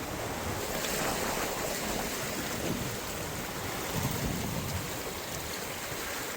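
Sea and wind noise aboard a sailing yacht under way: water washing past the hull with wind on the microphone, swelling briefly about a second in and again about four seconds in.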